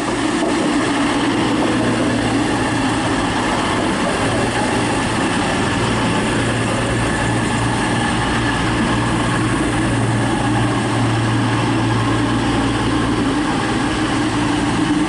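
Diesel engines of a CrossCountry Class 221 Super Voyager idling while the train stands at the platform: a steady, even low hum that does not rise or fall.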